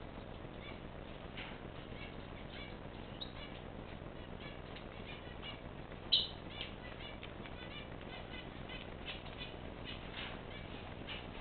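Pet birds chirping softly in short repeated notes, with one sharper, louder call about six seconds in.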